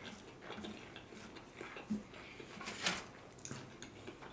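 Quiet eating sounds: a few faint clicks and taps of utensils, two a little sharper about two and three seconds in.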